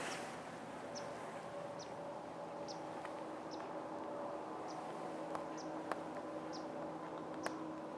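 A small bird repeating short, high, falling chirps about once a second over a faint steady hum. A brushing handling noise at the start and a few sharp clicks later on.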